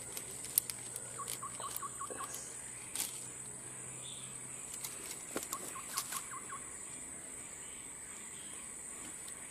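A bird calling in two quick runs of about seven short notes each, over a steady high insect buzz, with a few sharp clicks.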